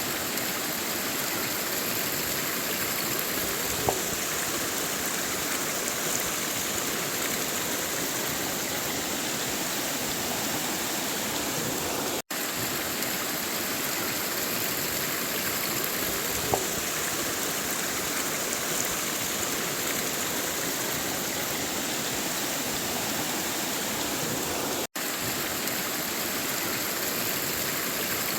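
River water flowing steadily over rocks, an even rushing with a few small splashes. The sound cuts out for an instant twice.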